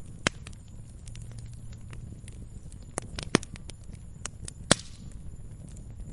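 Wood fire crackling in a fireplace: a low steady rumble of flames with scattered sharp pops and snaps, three louder pops standing out, the loudest near the end.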